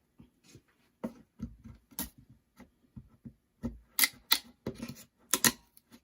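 Irregular sharp knocks and clicks of wooden 2x4 pieces and tools being handled on a workbench, a few louder knocks near the middle.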